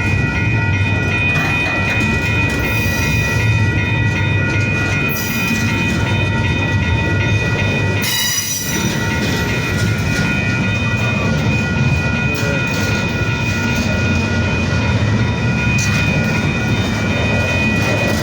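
Intermodal freight train's well cars rolling past, a steady loud rumble of wheels on rail with a high steady squeal from the wheels over it. The sound dips briefly about eight seconds in.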